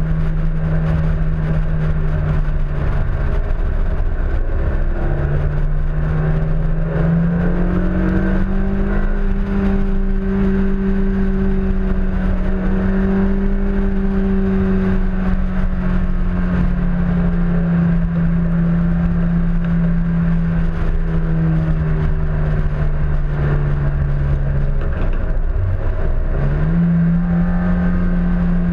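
Honda S2000's four-cylinder engine running hard on track, heard from outside the car at the front fender: the engine note drops a few seconds in, climbs and holds high, dips briefly near the end and picks up again, as the driver lifts and gets back on the throttle. Under it runs a heavy low rush of wind and road noise.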